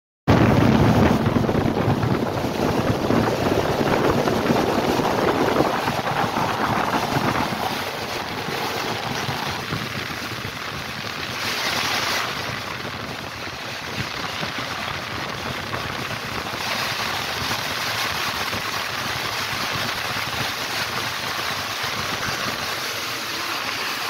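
Steady rush of air and running noise of a moving passenger train, heard at a carriage window. It is louder in the first few seconds, with a brief hissing swell about twelve seconds in as a wall passes close alongside.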